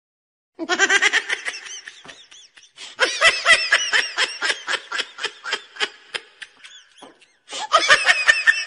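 High-pitched laughter in rapid ha-ha bursts, coming in three bouts: just after the start, again about three seconds in, and near the end.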